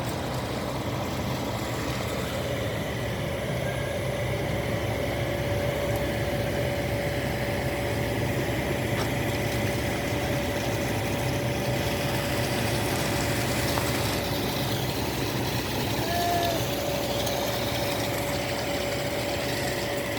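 Heavy diesel engine of construction machinery running steadily at a constant speed, with a steady whine over the low engine hum.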